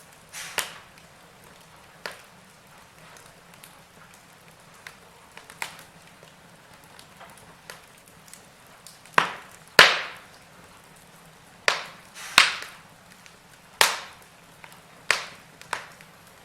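Burning logs in a fireplace crackling: irregular sharp pops over a faint hiss. The loudest pops come in a cluster from about nine seconds in.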